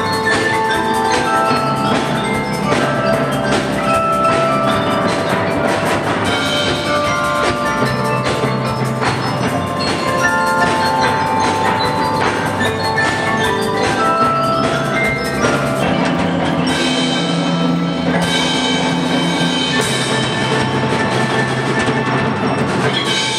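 Live ensemble music led by tuned mallet percussion, with bell-like and xylophone-like struck notes, wood-block clicks and drums, playing steadily up to the closing notes of the piece.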